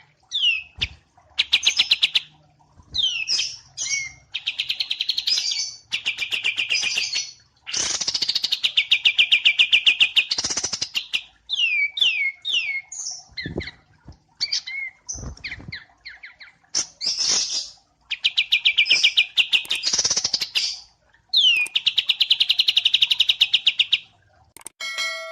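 Small songbird singing a masteran song: bursts of fast, rattling trills and sharp down-slurred whistles, repeated with short pauses between phrases.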